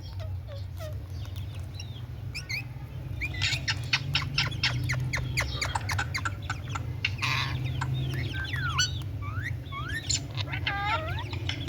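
Pet parrot chattering: a rapid run of clicks, short chirps and whistled notes that swoop up and down, growing busier a few seconds in, over a steady low hum.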